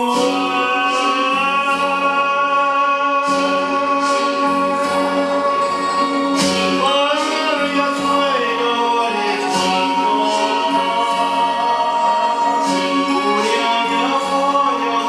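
A song sung over instrumental backing, with long held notes and no pauses.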